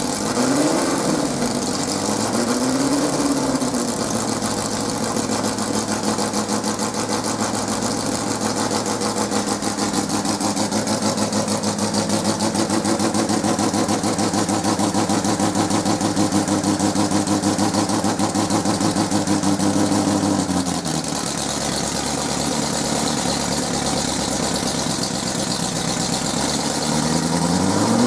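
Ford GT40 Mk1's V8 engine running: two short throttle blips in the first few seconds, then a steady fast idle that drops to a lower idle about twenty seconds in, before it is revved up again near the end.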